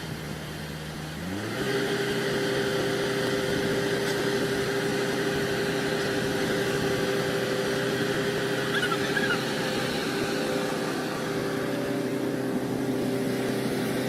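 JCB 3DX backhoe loader's diesel engine running. About a second in it revs up quickly and then holds a steady higher speed under load.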